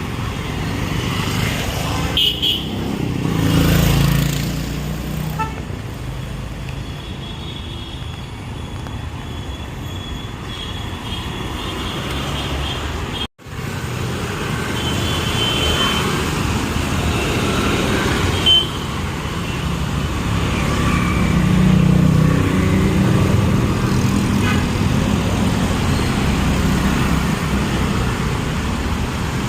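Street traffic: a steady rumble of engines, with vehicles passing close now and then and several short horn toots. The sound cuts out for a moment about halfway through.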